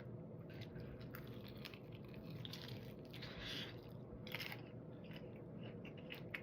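A person chewing a mouthful of food close to the microphone: soft, irregular mouth clicks and smacks.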